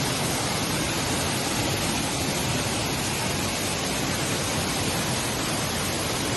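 Waterfall and river water rushing: a steady, even noise of falling water with no change.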